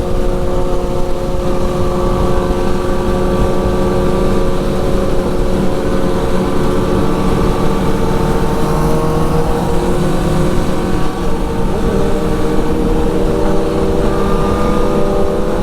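Motorcycle engine running at a steady pitch while riding, with only a slight dip in revs partway through.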